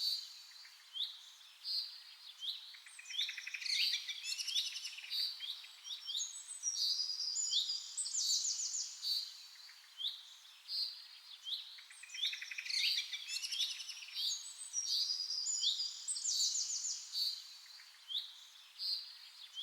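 Several songbirds chirping and singing: short high notes, quick slurred calls and fast rattling trills overlapping, with a pattern of calls that comes round again about every eight or nine seconds.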